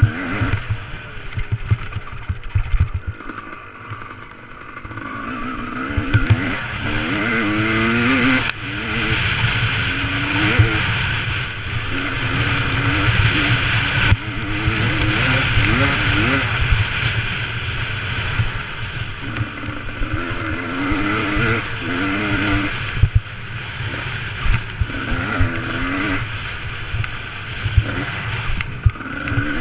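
Motocross bike engine revving up and dropping back again and again as it is ridden, over heavy low rumbling and knocking.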